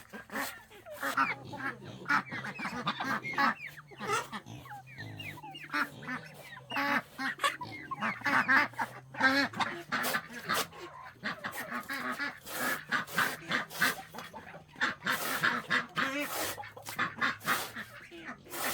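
A flock of domestic waterfowl calling over and over, with many short honking calls overlapping throughout.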